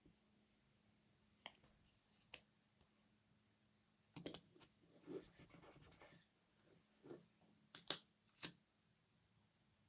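Faint scattered clicks and short scrapes of small hard objects being handled, with a busier run of scraping in the middle and a few sharper clicks near the end.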